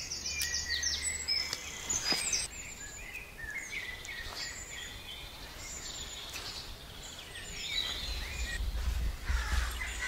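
Woodland birds singing and chirping throughout, with a couple of sharp clicks about two and four seconds in and a low rumble near the end.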